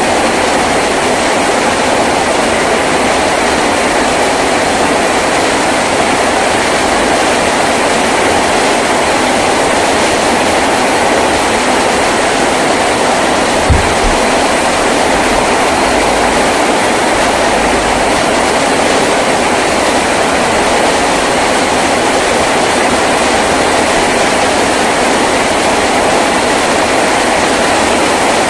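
Heavy rain drumming steadily on a tin roof, a dense, even patter. A single dull thump about halfway through.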